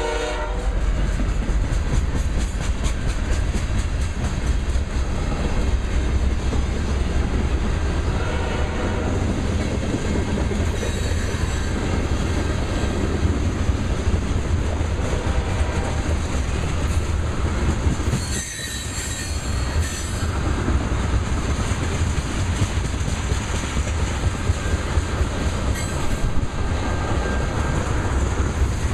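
Loaded freight oil train passing at speed: steady heavy rumble of wheels on rail with rapid clacking over rail joints, and a few brief high wheel squeals. A horn cuts off at the very start.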